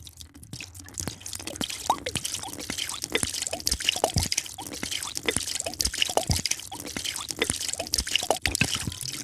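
Liquid being poured into a drinking glass, with many irregular small plops and bubbling drips over a hiss of splashing, growing louder about a second in.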